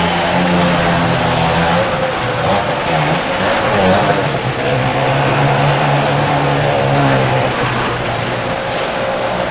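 Car engines revving hard as cars circle the vertical wooden wall of a well-of-death pit, the engine note rising and falling.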